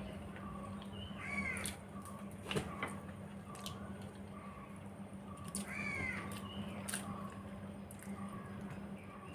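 Two short animal calls that rise and then fall in pitch, about four seconds apart, over scattered small clicks and smacks of eating.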